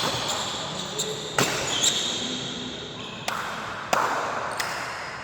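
Badminton rally: a series of sharp cracks of rackets striking the shuttlecock, about five in all, a second or so apart, with shoes squeaking on the court over steady crowd noise in an indoor hall.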